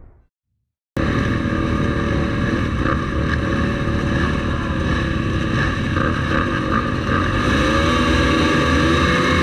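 Motocross motorcycle engines running and revving together, cutting in abruptly about a second in after a moment of silence, with the pitch rising and falling over the last couple of seconds.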